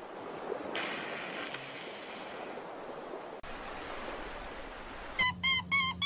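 Steady rush of sea water and surf. Near the end, guinea pigs start squeaking: a quick run of short, high whistling calls, three or four a second, some falling in pitch.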